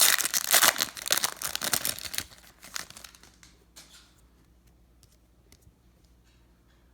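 Wrapper of a 2018 Series 2 baseball card pack being torn open and crinkled, loud for about two and a half seconds, then a few faint ticks before it goes quiet.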